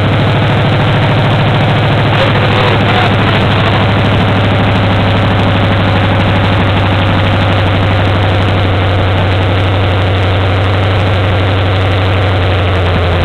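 Chevrolet 283 small-block V8 with a somewhat high-lift cam, running steadily on open headers.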